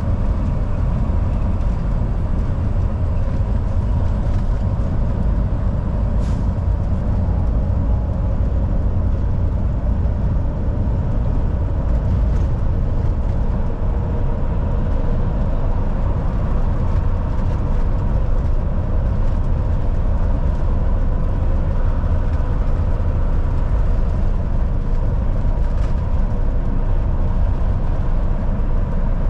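Volvo VNL 760 semi truck cruising at highway speed: a steady low engine drone mixed with tyre and road noise, even and unbroken.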